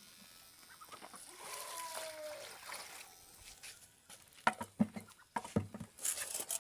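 Chickens clucking, with one drawn-out call about a second and a half in, followed by a run of sharp knocks and taps in the second half.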